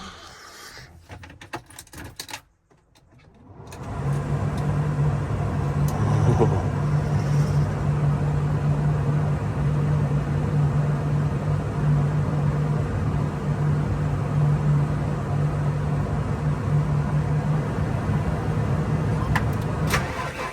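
Faint handling knocks and a moment of near silence, then, about four seconds in, a tractor engine comes in and runs steadily without revving.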